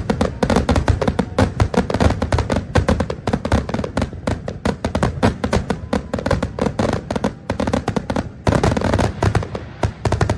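Fireworks going off in rapid succession: a dense stream of sharp bangs and pops, several a second, turning to a thicker crackling from about eight seconds in.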